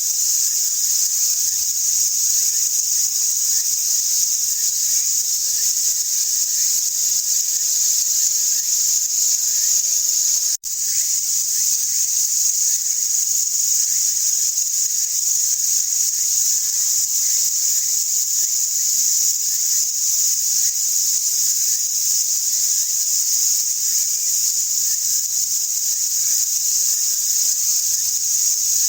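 A steady, dense chorus of insects singing as one continuous high-pitched drone. It drops out for an instant about ten seconds in.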